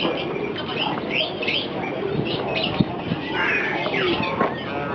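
Many caged birds calling at once, a dense overlapping mix of short rising and falling chirps, over a steady background din. A single sharp click comes a little past halfway.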